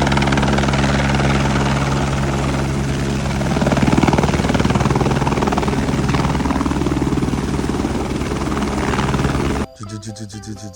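Helicopter sound: a steady engine drone that turns into a rougher, pulsing rotor sound about a third of the way in. It cuts off abruptly near the end, and a short tinkling music jingle takes over.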